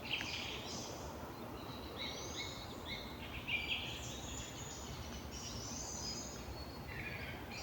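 Several songbirds singing at once in a spring forest, many overlapping short chirps and trills over a steady outdoor hiss.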